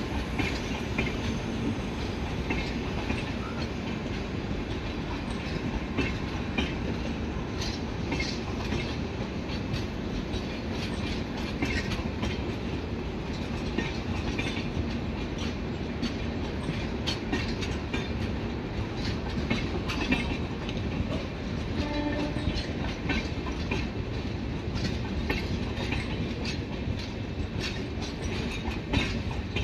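Passenger train coaches rolling past on the rails: a steady rumble of wheels on track, with frequent clicks as the wheels cross rail joints.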